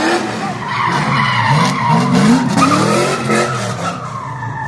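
Pontiac Trans Am WS6 doing a burnout: tires squealing and smoking against the pavement while the engine is revved up in repeated climbs.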